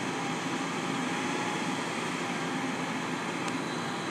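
Log-loader truck's engine running steadily, a constant mechanical hum with a faint steady whine.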